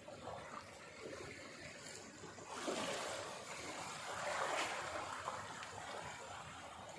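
Sea waves washing onto the shore: a steady wash of water that swells about two and a half seconds in, peaks, and eases off after about five seconds.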